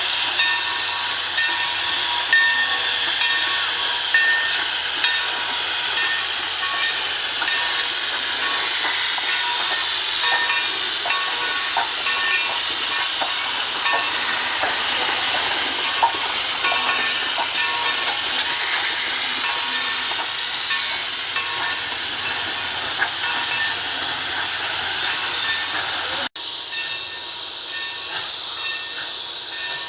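Steam train running with a steady loud hiss of steam, faint thin squeals at a few fixed pitches sounding through it. Near the end it drops abruptly to quieter running noise of the train on the rails.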